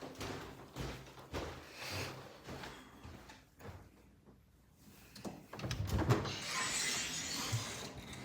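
Footsteps crunching in packed snow, a few steps in the first three seconds, then a short lull. From about five and a half seconds in, a steady rushing noise with a few low thumps.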